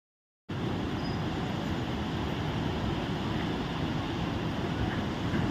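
Steady low rumble of a moving road vehicle, cutting in abruptly about half a second in after dead silence.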